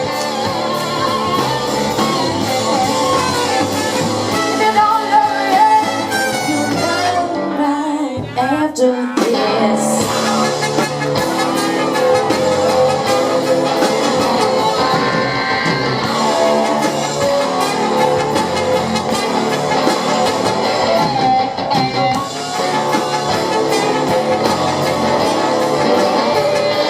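Live band music with guitar, played loud and full throughout; the sound briefly thins out with a sweeping effect about eight seconds in.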